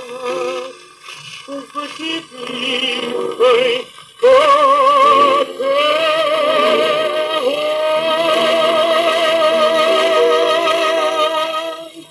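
Closing bars of an old romance played from a 78 rpm shellac record: music with wavering sustained notes. The last long note is held from about halfway through and fades out near the end.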